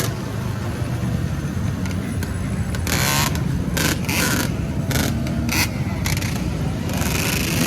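Motorcycle engine running at low revs, with several short noisy bursts about halfway through.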